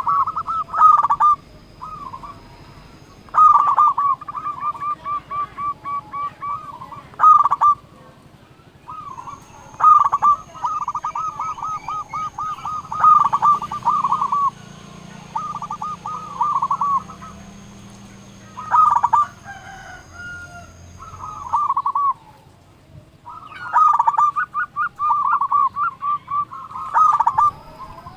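Zebra dove (perkutut) cooing: repeated bursts of its rapid, rolling call, each a quick run of pulsed notes, with short pauses between bursts.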